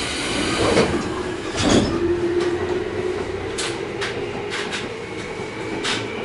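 Inside a Tobu 20000 series electric train pulling out at low speed: running noise with a steady traction-motor tone from its AFE chopper control setting in about two seconds in, and a run of sharp knocks from the wheels on the rails in the second half.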